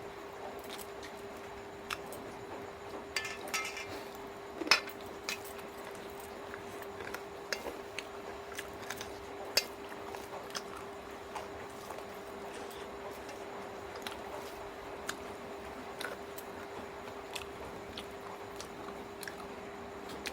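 A person eating chicken feet: scattered chewing and biting clicks with occasional clinks of dishes, the loudest a few seconds in and again near the middle, over a steady hum.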